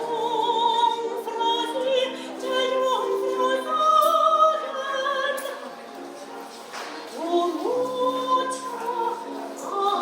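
Classical operatic singing: held notes with vibrato in a sung phrase, the line swooping up to a higher note about three-quarters of the way through.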